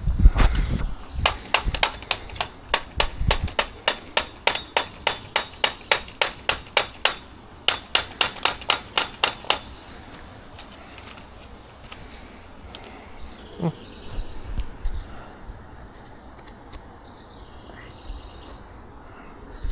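Rapid run of sharp knocks, about three to four a second for some eight seconds with a brief pause, as the clogged Dyson vacuum is knocked to clear it, then quieter handling.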